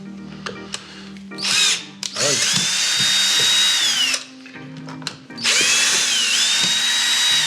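Cordless drill-driver run in two spells of about two seconds, its motor whine dropping as it slows at the end of each, backing out the screws that hold a shoe's shank reinforcement.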